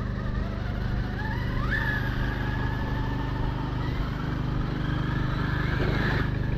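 Traxxas X-Maxx RC monster truck's electric motor and drivetrain whining, rising in pitch about a second in as the truck speeds up, then holding steady.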